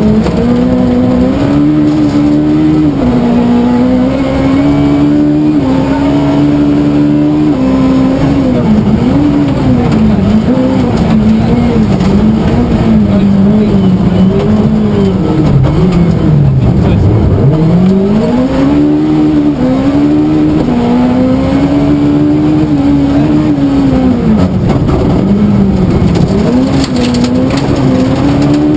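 Suzuki Swift S1400 rally car's engine at full stage pace, revving hard and shifting, its pitch climbing and falling again and again. It drops deeply about 17 seconds in, as the car slows for a tight section, then climbs again.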